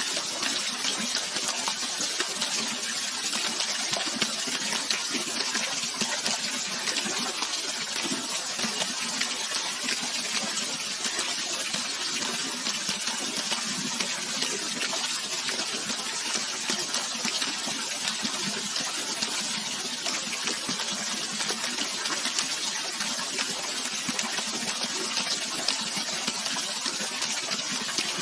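Flowing water rushing steadily and evenly, with no change in level and no other sound.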